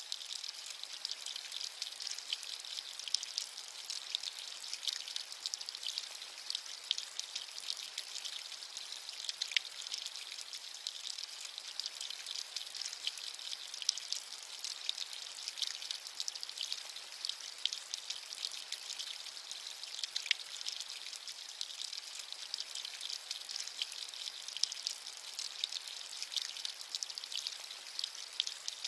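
Steady rain with many small distinct drop patters over a soft, high hiss, with little low rumble.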